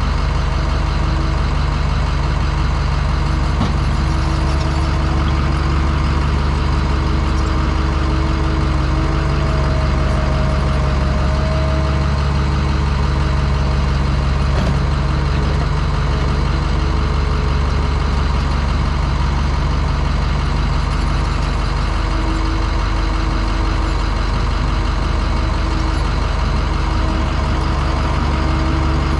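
A heavy diesel engine running steadily at an even speed, loud and close, with no revving.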